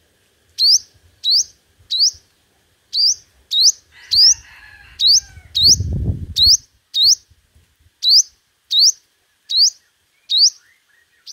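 Sunbird giving a series of short, sharp, upward-sweeping call notes, about two a second, as used in a sunbird lure recording. About halfway through, a low rumble runs for two seconds under the calls.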